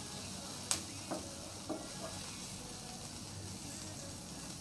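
Drumstick leaves and shallots sizzling in oil in a nonstick pan while being stirred with a wooden spatula, which knocks against the pan three times in the first two seconds.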